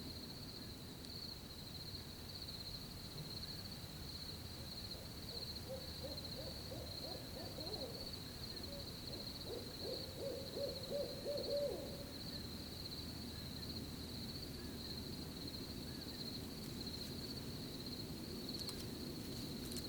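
An owl hooting in a run of notes, loudest about ten to twelve seconds in, over the steady high trill of crickets.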